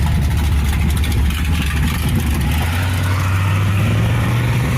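A car engine running at low revs as it passes, its pitch rising a little through the second half as it picks up speed.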